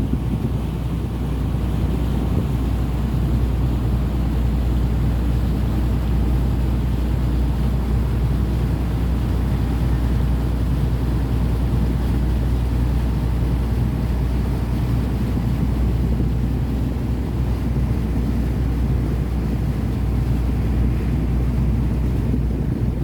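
Boat's engine running steadily under way, a constant low hum, with wind and water noise over it.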